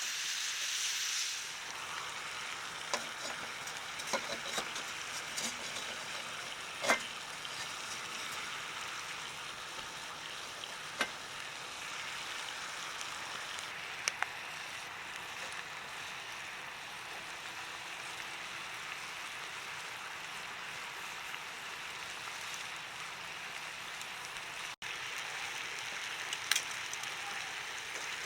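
Meat sizzling over a campfire: a steady hiss with a few sharp pops scattered through it.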